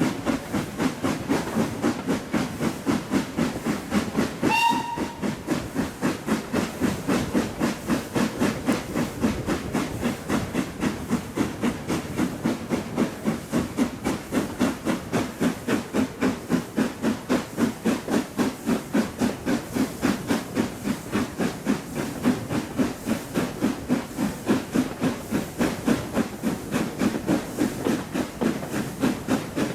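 Steam locomotive working steadily, its exhaust beats chuffing in a quick, even rhythm. A short whistle blast sounds about four and a half seconds in.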